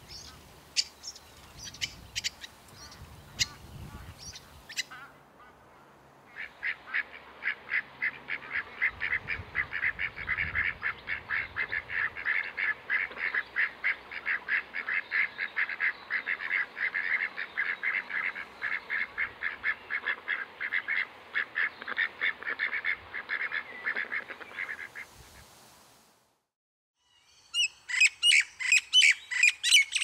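Birds calling. Scattered high chirps come first, then a long, evenly repeated run of notes lasting nearly twenty seconds, and after a short gap a burst of loud chirping near the end.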